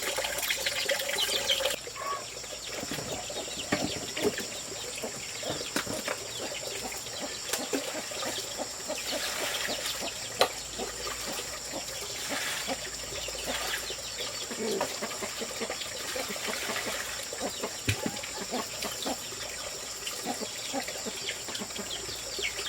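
Chickens clucking now and then among scattered small clicks and knocks, over a steady high-pitched hum.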